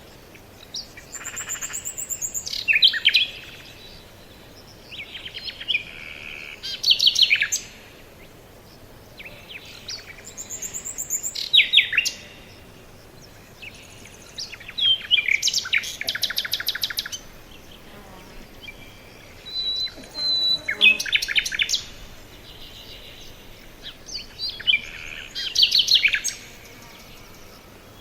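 A songbird singing a short, repeated song six times, about every four to five seconds; each phrase is a quick run of high notes that ends in a few loud, falling notes.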